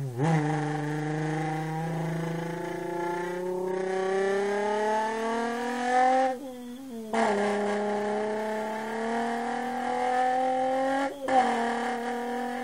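A person imitating a car engine with their voice, revving up through the gears: a buzzing hum climbs slowly in pitch, breaks off about six seconds in as if shifting, climbs again, and shifts once more near the end.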